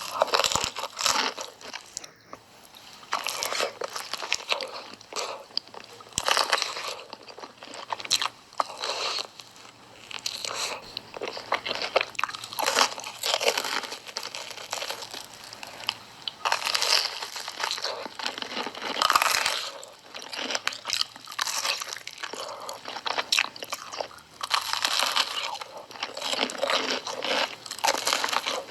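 Crunchy hot Cheetos being bitten and chewed, a dense crunching that comes in irregular bursts, bite after bite.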